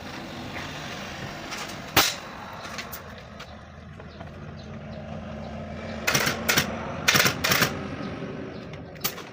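Sharp clacks from upholstery work on an armchair being re-covered, over a steady background noise: a single loud one about two seconds in, then a quick run of about five in the second half, and a fainter one near the end.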